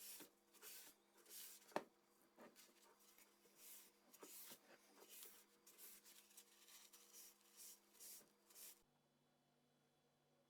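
Faint repeated rubbing strokes, roughly two a second, with one sharp click about two seconds in. The strokes stop near the end, leaving a faint steady hum.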